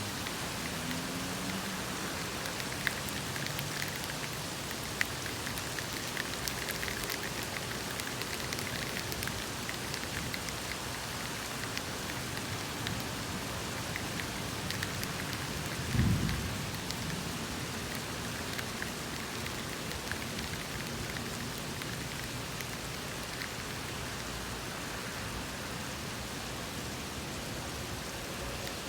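Steady rain falling, with scattered drip ticks, and a single thunderclap about halfway through: a sudden low boom, the loudest sound here, trailing off in a short rumble.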